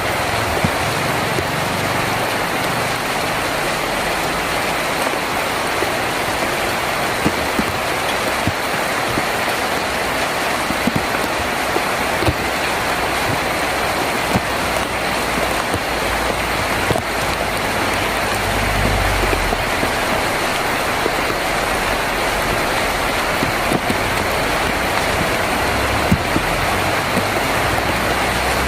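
Heavy rain drumming on a tin roof: a steady dense hiss dotted with individual drop taps. A low rumble swells briefly past the middle and again near the end.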